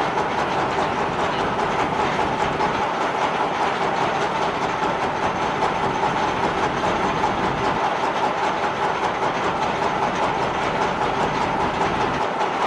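Steady machinery noise: a continuous hum with fast, even rattling, unchanging throughout.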